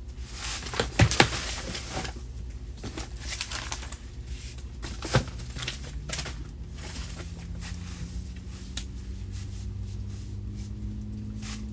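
Things being handled by hand: crinkling and rustling, with a few sharp knocks about a second in and about five seconds in, over a faint steady low hum.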